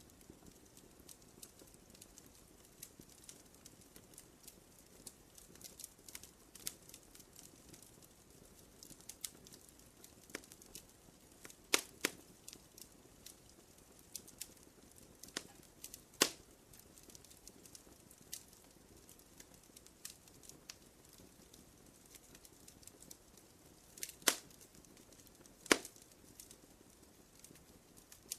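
Wood campfire crackling: irregular small snaps and ticks over a faint hiss of the flames, with a handful of louder sharp pops, two of them close together about twelve seconds in and two more near the end.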